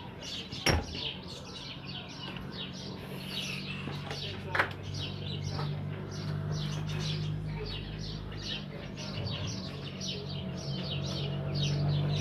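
Small birds chirping continuously in quick downward chirps, with two sharp clicks, one near the start and one about halfway through. A low steady hum grows in the second half.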